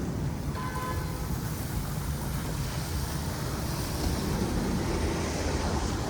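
City street traffic: a steady low rumble of passing vehicles, with a brief high tone about a second in.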